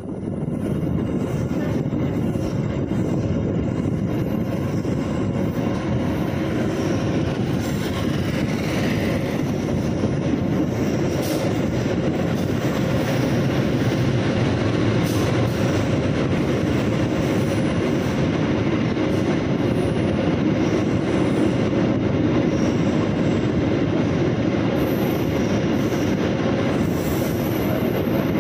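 Kahuripan passenger train running on the line, a steady rumble of wheels on the rails.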